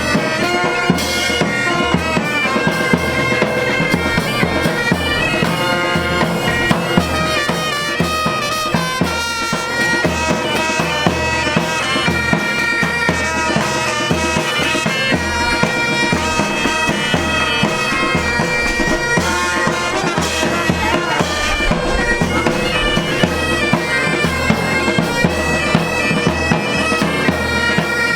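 Pipe band playing: bagpipes sound a melody over their steady drones, with a marching drumbeat underneath.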